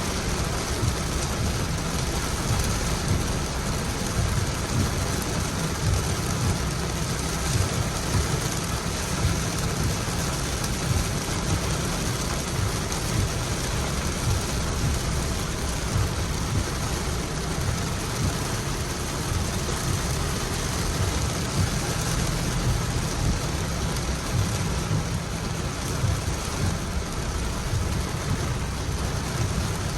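Steady rain: an even hiss with a constant low rumble underneath, unchanging throughout.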